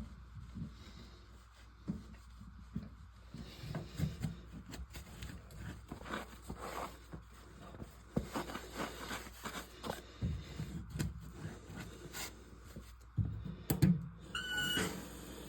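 Handling noises while working on toilet tank parts: scattered clicks, knocks and scraping, with a short squeak near the end.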